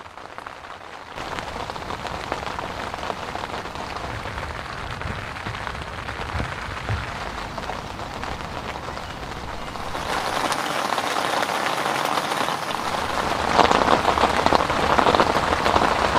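Heavy, steady rain falling, getting louder about two-thirds of the way through.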